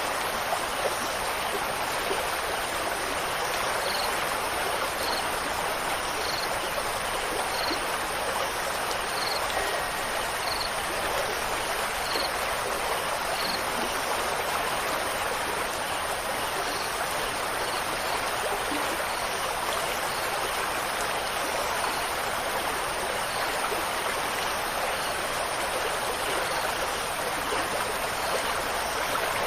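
Steady rushing of flowing water, an even stream-like wash. Faint short high chirps repeat about every second and a half over it.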